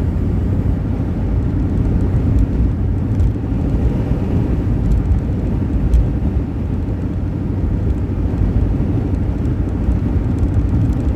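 Jeep driving, heard from inside the cabin: a steady low rumble of engine and road noise, with a brief louder bump about six seconds in.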